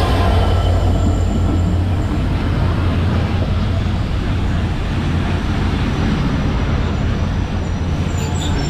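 A broad-gauge passenger train rolling past close by: the EMD GT42 diesel locomotive's engine drone, then the coaches' wheels running over the rails, steady throughout.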